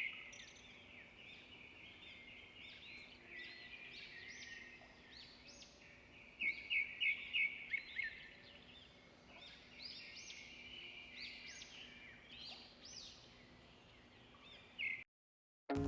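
Small songbirds chirping and twittering, faint, with a quick run of four louder chirps about six and a half seconds in; it cuts off abruptly near the end.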